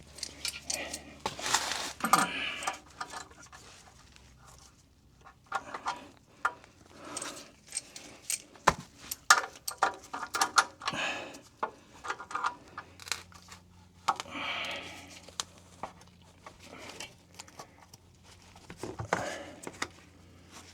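Scattered metallic clinks and clicks of hand tools working on a Fumoto quick drain valve as it is tightened into the engine oil pan past hand-tight.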